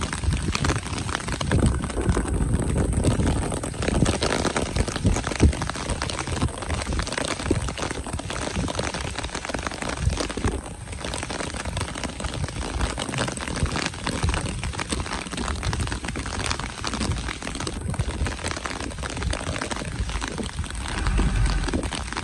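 Heavy rain falling, a dense crackle of drops, over the low running of a loaded Mitsubishi truck's engine as it inches through deep mud. The engine is louder in the first few seconds and again near the end.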